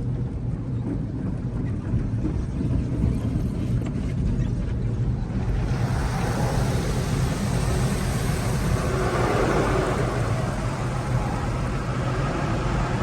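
Automatic car wash heard from inside the car: a steady low rumble, joined about six seconds in by a loud rushing hiss of the wash equipment working against the car body.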